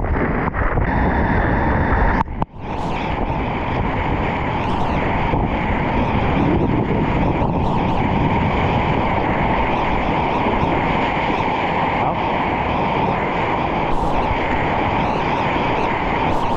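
Steady rush of river whitewater close by, with a brief dip about two seconds in.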